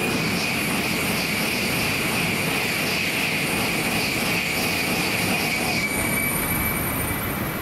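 Tokaido Shinkansen train passing at speed: a loud, steady rush with a high whine over it, the upper hiss easing off near the end.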